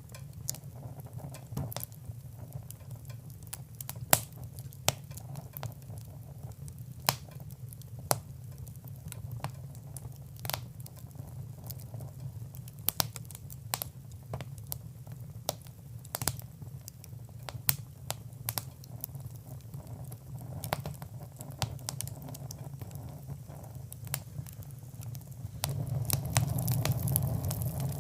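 Fire crackling, with irregular sharp pops and snaps over a steady low rumble; it grows louder near the end.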